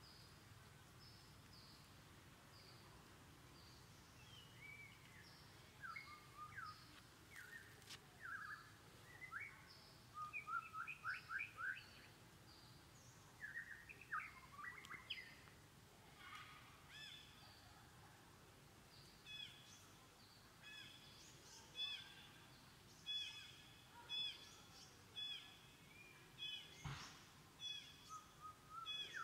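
Several forest birds calling faintly: short high chirps, quick rising and falling trills in the middle, and a run of repeated notes about once a second toward the end. A single knock near the end.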